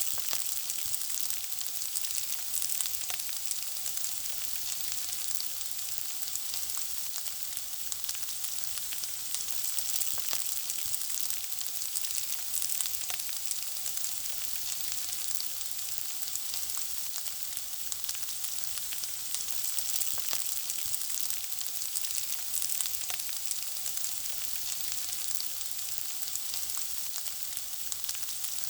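Food frying: a steady sizzle with dense, fine crackling throughout.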